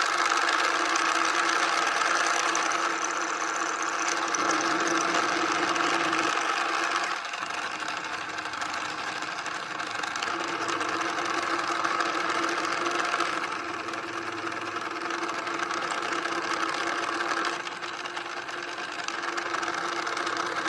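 Small motor running a homemade PVC gearbox model, a steady mechanical whir with gear rattle that shifts in level a few times.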